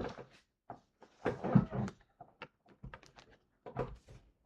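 Handling noises from toys and packaging being moved about on a table: irregular knocks, clicks and rustles, loudest about one and a half seconds in.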